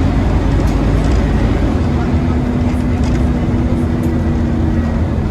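Scania OmniCity bus running at a steady drone over a low rumble. The engine is loud and makes the vacuum-cleaner-like noise that bus enthusiasts call a 'hoover', which the uploader takes as a sign that this bus is worn out.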